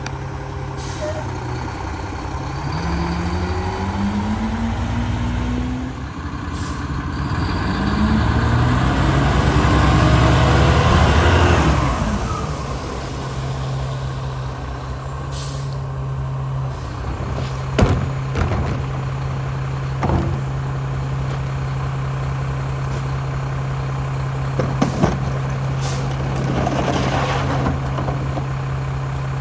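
Mack Granite diesel garbage truck idling, then revving up for about ten seconds and dropping back to idle, with short hisses of air brakes or air valves. Several sharp clunks come later.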